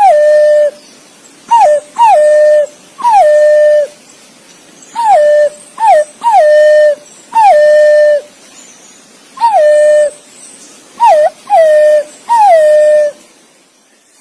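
Green pigeon (punai) calling: a run of clear whistled notes, each sliding down and then held, some with a short hooked note just before. The calls stop about a second before the end.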